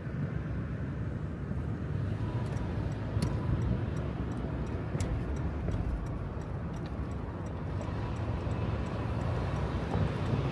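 Steady low rumble of vehicle traffic on a city street, with faint scattered ticks.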